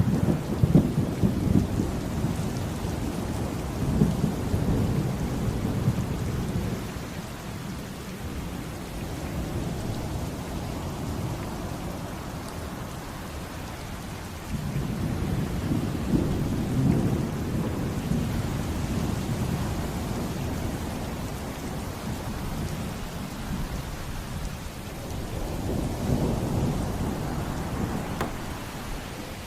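Steady heavy rain with rolling thunder: a long low rumble at the start, another from about halfway, and a weaker one near the end.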